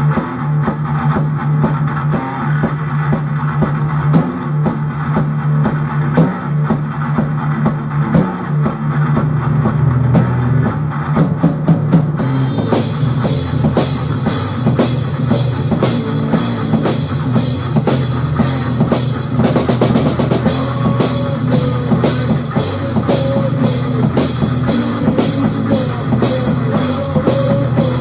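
Rock music with a full drum kit, bass and guitar playing an instrumental passage; about twelve seconds in, cymbals crash in and the drumming drives on brighter.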